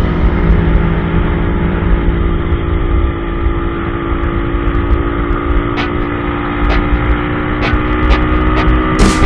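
Kawasaki KLX 250 SF single-cylinder motorcycle engine running steadily at cruising speed, heard from the bike's own mounted camera with wind rumble. It sounds muffled, with the highs cut off.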